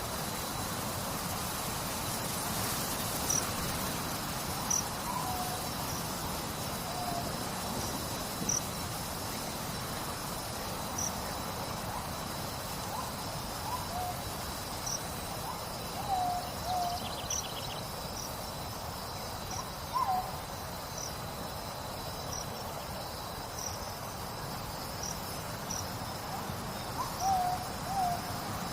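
Night ambience: insects trilling steadily with short high chirps every second or two, and an owl giving short hoots now and then, some in pairs. A steady hiss runs underneath.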